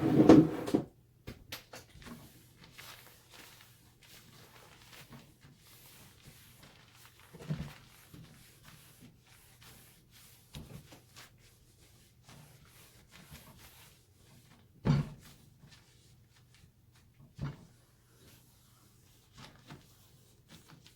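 Wooden kitchen cabinet doors knocking and bumping a few times while restorer is wiped onto them, with faint rubbing between. The loudest knock comes about two-thirds of the way through. There is a brief loud sound at the very start.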